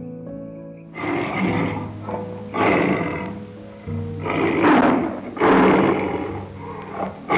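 An animal calling in a series of about six harsh, rasping bursts, each up to about a second long, over background music with sustained tones.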